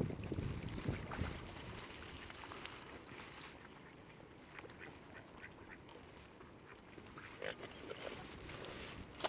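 Ducks quacking, a few short calls near the end, over a low rumble of wind and water in the first second.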